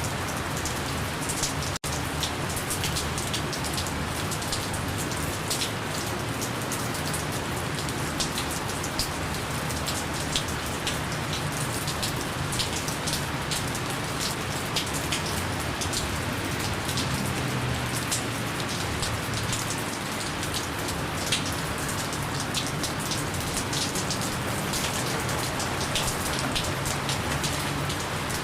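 Steady gentle rain falling, with a dense patter of individual drops. A brief dropout, a split-second gap, about two seconds in.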